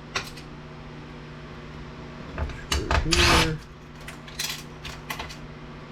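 Power drill/driver briefly spinning a screw out of the DVD player's metal chassis about three seconds in, followed by a few light clicks of the screw and parts being handled, over a faint steady low hum.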